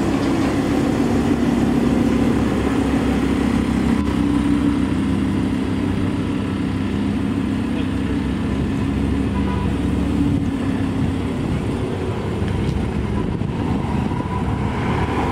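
Lamborghini's engine running steadily while it is driven: a continuous low drone, a little stronger in the first few seconds.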